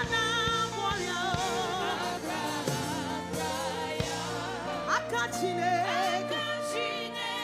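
Gospel praise song: voices singing with vibrato over a backing band with a steady beat.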